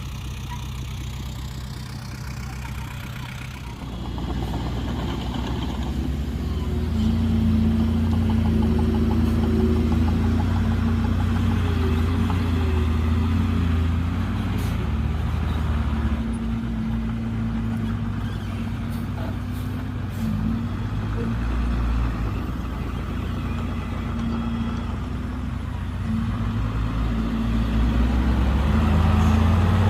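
Heavy diesel engine of earthmoving machinery running steadily, getting louder about four seconds in and again near the end.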